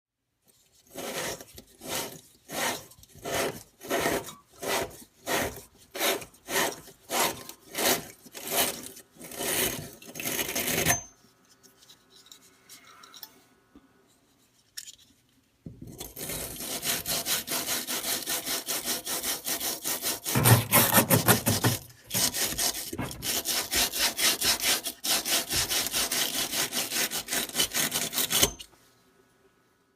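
Hand sawing: even back-and-forth strokes, about three every two seconds, for about ten seconds. After a short pause comes a longer run of fast, continuous sawing that stops a little before the end.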